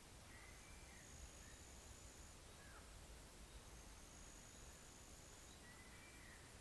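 Faint pond-side nature ambience. A high, thin note is drawn out for about two seconds and comes back every few seconds, with a few short faint bird chirps and a low steady rumble underneath.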